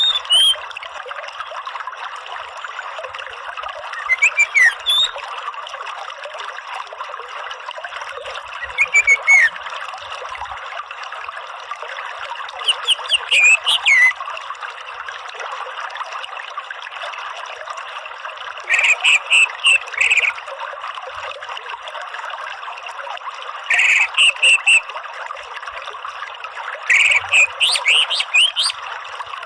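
Orange-headed thrush singing short phrases of quick, rising and falling whistled notes, about one every four to five seconds, over a steady trickle of running water.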